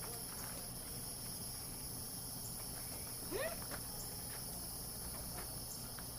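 Steady high-pitched chorus of crickets and other insects, with faint scattered clicks. A little over three seconds in there is one short, quickly rising squeak.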